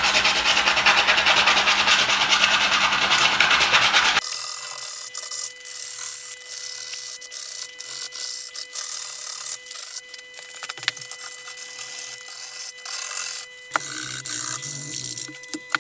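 An abrasive sanding disc rubbed by hand over a marble slab to key the stone for epoxy, in quick back-and-forth scrubbing strokes. About four seconds in the sound changes abruptly to quieter, separate strokes with short gaps, over a faint steady tone.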